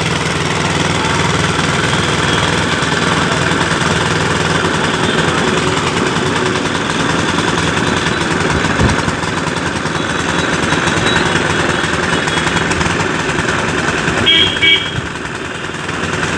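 Small petrol engine running steadily, driving a sugarcane crusher machine. A single knock comes about halfway through and a brief high-pitched sound near the end.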